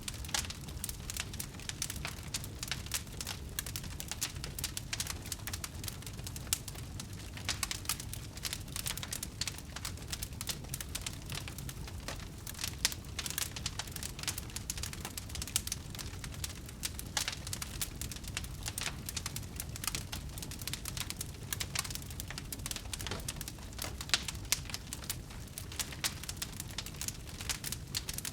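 Wood campfire burning, with a dense run of sharp crackles and pops over a steady low rumble.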